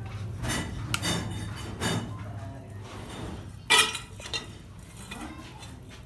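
Metal parts clinking and clanking against each other, with one loud ringing clang about two-thirds of the way through, over a steady low machine hum.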